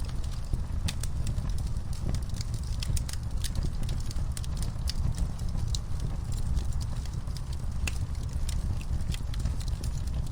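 Wood fire burning in a fireplace, crackling and popping in many sharp, irregular snaps over a steady low rumble of flame.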